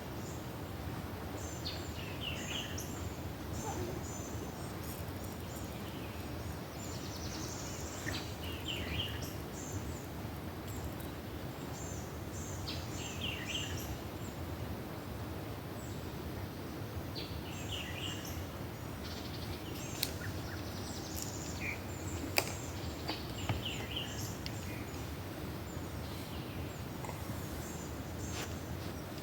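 Outdoor ambience: a steady low background noise with birds calling, a short call repeating every few seconds over higher chirps, and a few sharp clicks near the end.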